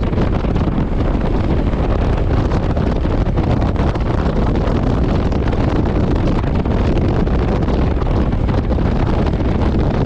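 Steady wind rush on a GoPro Hero9's microphone from a Honda CRF1100 Africa Twin under way, with the motorcycle's engine and road noise mixed in beneath.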